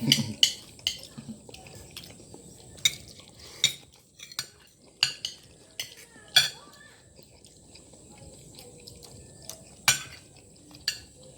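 Eating utensils clinking against a plate now and then while someone eats: about ten sharp, irregular clinks, the loudest about six and ten seconds in.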